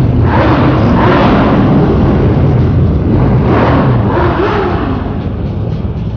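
Motorcycle ride noise: the steady drone of a Can-Am Spyder three-wheeled motorcycle's engine, with a rush of wind or passing traffic that swells twice, about a second in and again near the middle.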